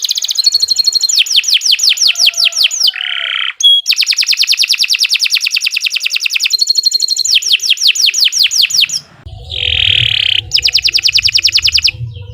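A domestic canary singing long, fast trills of rapidly repeated high notes in several phrases, with short breaks between them. A low rumble comes in underneath about three quarters of the way through.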